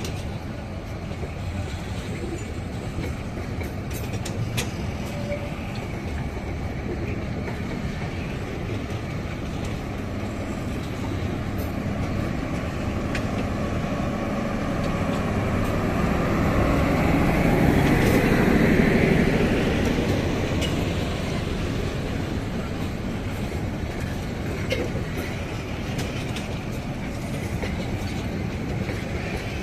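Bangladesh Railway intercity passenger train departing, its coaches rolling past with a steady rumble of wheels on rail. The rumble swells louder for a few seconds about two-thirds of the way through, then settles again.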